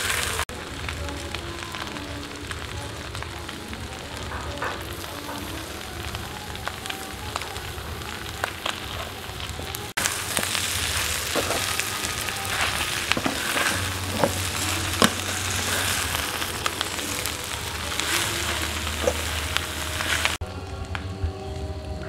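Crocodile tail meat sizzling as it is stir-fried in a metal wok, with a metal ladle scraping and clinking against the pan. The sizzling is louder from about ten seconds in.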